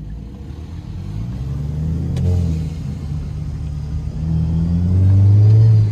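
Car engine accelerating: its note rises in pitch twice, the second rise longer and the loudest, near the end.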